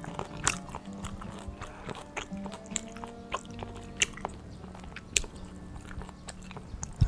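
A person chewing crispy pan-fried kimchi pancake close to a clip-on microphone, with a few sharp crunches, over background music.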